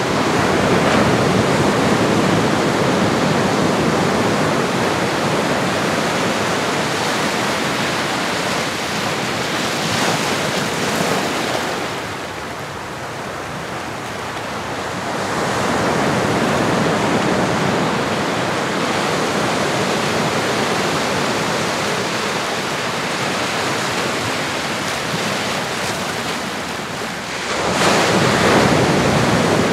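Ocean waves breaking and washing in, a continuous rushing surf that swells louder every several seconds as each wave comes in.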